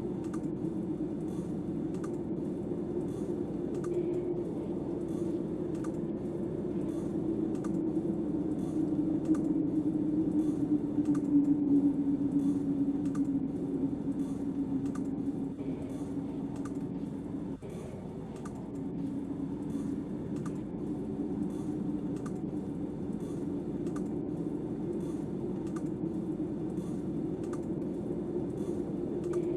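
Snowstorm wind howling in a low, wavering tone that swells in the middle, with light, regular clicking over it.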